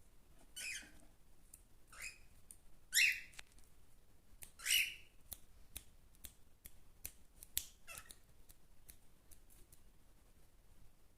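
Cockatiels giving five short, shrill calls, the loudest two about three and five seconds in, with light scattered clicks between them.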